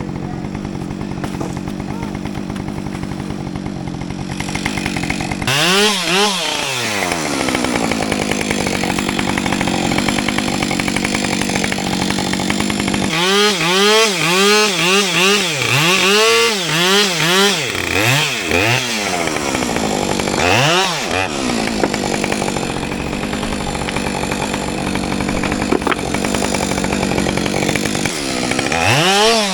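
Two-stroke chainsaw running at a steady speed, then revved up and down repeatedly. About 13 seconds in it gives a quick run of throttle blips, roughly two a second, each rising and falling in pitch.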